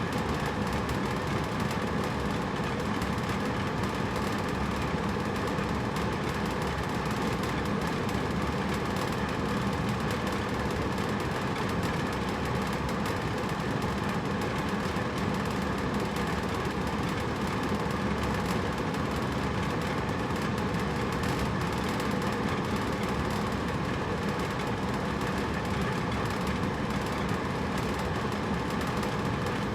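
Hotel room air conditioner running with a steady, even hum and rush of air.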